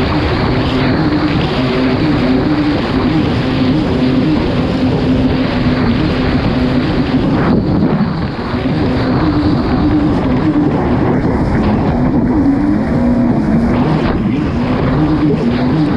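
Kawasaki STX-160 personal watercraft's four-stroke engine running hard under race throttle, its note wavering up and down, over a steady rush of wind and water, with a brief dip in loudness about eight seconds in.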